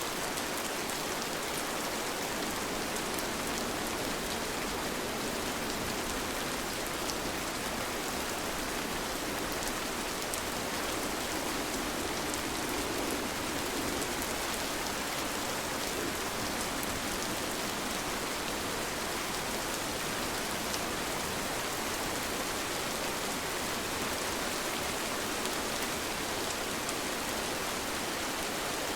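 Steady, even rain falling, with faint scattered drop ticks over the continuous patter.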